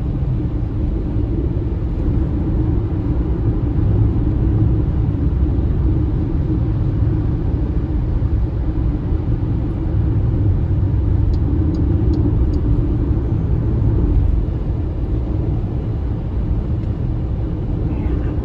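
Steady low road and tyre rumble from an MG ZS EV electric SUV driving along a fast road. There is no engine note, only the hum and rumble of the car in motion.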